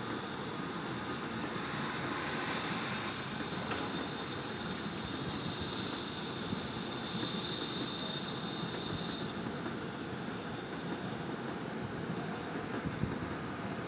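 Steady city traffic noise heard from an apartment, with a high thin whine that sets in about two seconds in and stops abruptly near the middle, like a passing vehicle or train.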